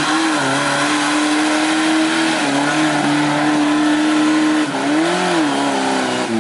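Off-road jeep engine held at high revs while driving through mud. The pitch stays steady, then dips, swells up and falls away again about five seconds in.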